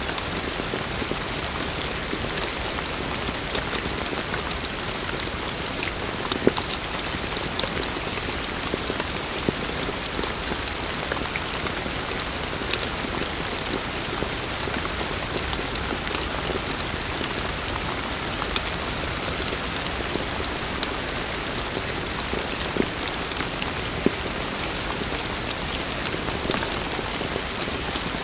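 Heavy rain falling in a steady hiss, with individual drops ticking on surfaces and a few louder drop hits scattered through.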